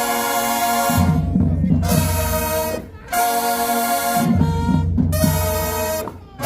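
Marching band brass section playing loud, long-held chords over drums, in phrases about three seconds long, each cut off by a short break.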